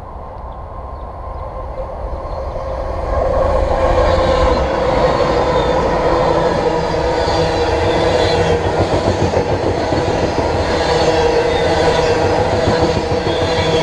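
Freight train approaching and passing: the BNSF GE diesel locomotives grow louder over the first three seconds, then loaded coal hopper cars roll by with a steady rumble and clatter of wheels on the rails.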